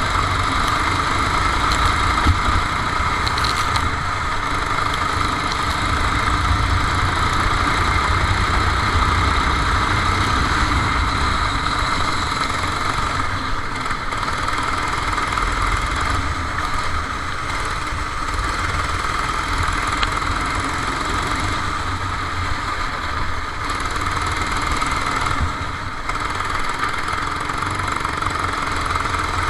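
Kart engine running steadily, heard from on board, with a constant low rumble.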